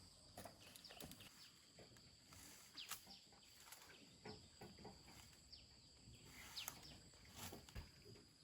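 Near silence: faint outdoor ambience with a thin steady high-pitched hum and scattered small clicks and short falling chirps.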